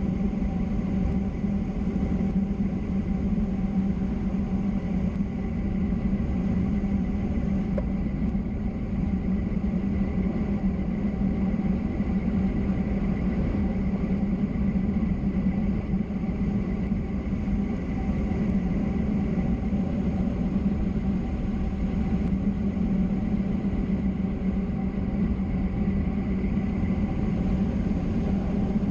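Steady travel noise on a downhill road descent: constant road and wind rush with a low hum that holds level throughout.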